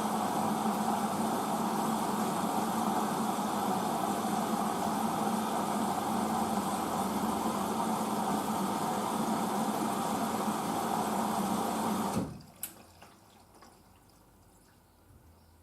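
Hoover DYN9144D3X washing machine taking in water through its inlet valve at the start of the wash: a steady rush of water with a hum. It cuts off suddenly about twelve seconds in as the valve closes, followed by a single click.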